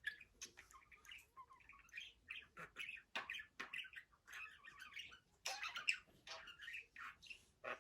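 Budgerigar chattering and warbling: a fast, continuous run of short chirps, squawky notes and trills.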